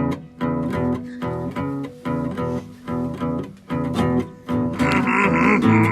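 Guitar playing the opening of a blues, strumming chords in a steady rhythm. A brighter sound joins near the end.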